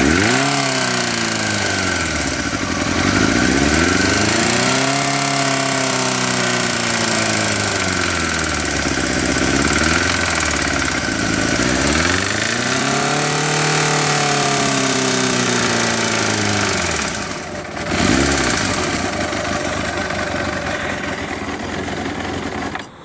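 Engine revved up and down several times, with a loud clatter from either the cylinder head or the timing gear that grows with the revs. The clatter comes in above roughly 1000 rpm and is absent at idle, a sign of a mechanical fault in the head or timing. A quick blip of the throttle comes near the end, then the engine stops.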